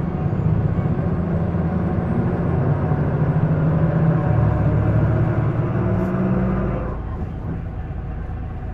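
Isuzu Erga city bus diesel engine pulling hard at high revs under acceleration, building in level, then falling away suddenly about seven seconds in as the load comes off.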